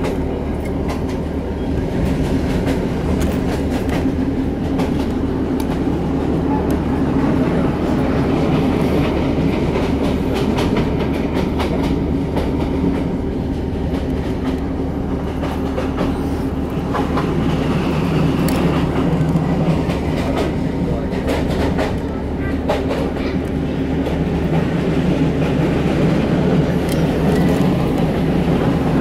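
Steady running noise of a diesel passenger train as heard from inside the carriage: a low drone and wheel rumble on the rails, with now and then a faint click from the track.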